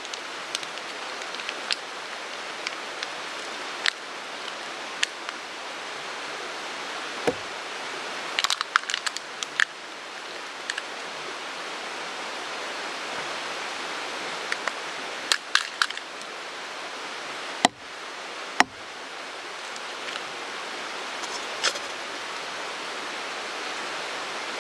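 Mountain stream rushing steadily, with scattered sharp cracks and snaps of a crackling wood campfire over it.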